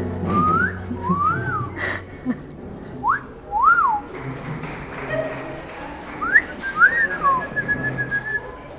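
Parrot whistling: a string of about six clear whistled notes, each sliding up or up-and-down in pitch, followed by a longer level whistle near the end. A few light taps sound among them.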